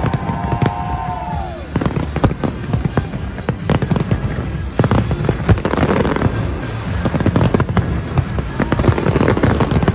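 Large fireworks display: dense, continuous crackling with many sharp bangs over a low rumble.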